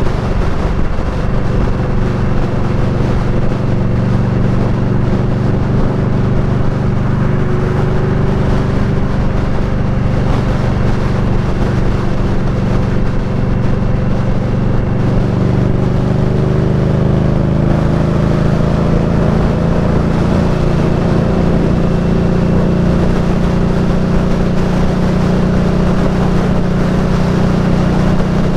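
Indian Scout Bobber's V-twin engine running under way, steady at cruising speed, its pitch slowly rising in the second half as it gathers revs.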